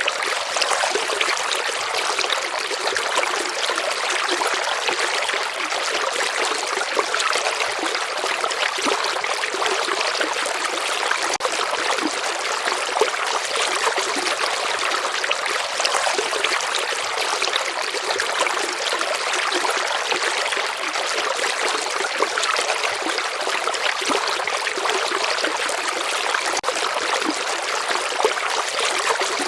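River water flowing steadily: a constant rushing trickle with small splashes and little deep rumble.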